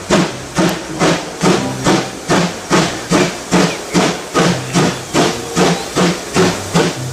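Steam locomotive chuffing in a steady rhythm, about two and a half chuffs a second.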